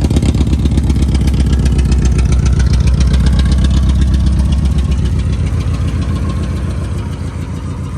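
Straight-piped Honda Accord four-cylinder engine running loud and uneven with a misfire, which the owners trace to a failed fuel injector rather than spark. It swells up in the first second, then slowly eases down.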